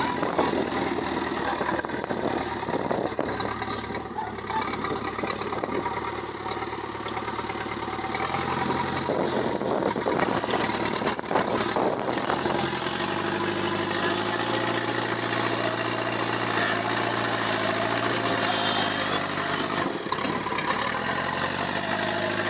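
Backhoe loader's diesel engine running steadily. Its engine speed shifts up a couple of times in the first half, then holds an even note.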